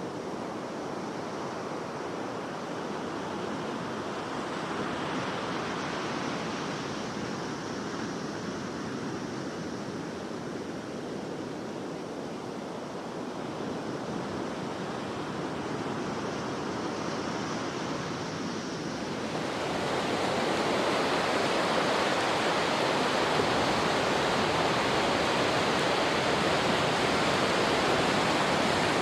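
Steady rush of water, which grows louder and brighter about twenty seconds in.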